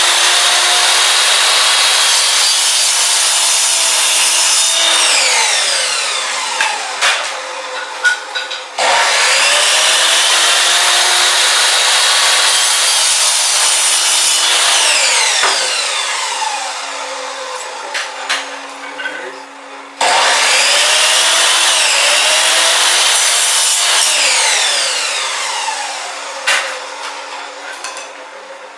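Electric chop saw run in three bouts: the blade is already at full speed at the start and is started twice more about nine and twenty seconds in. Each time it runs steadily for several seconds, then is switched off and winds down in a falling whine, with a few sharp knocks as it slows.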